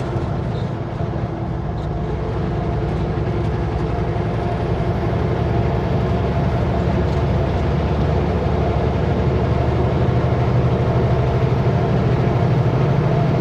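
Kenworth W900L semi truck under way on the highway: steady diesel engine drone mixed with road noise, growing slightly louder a few seconds in.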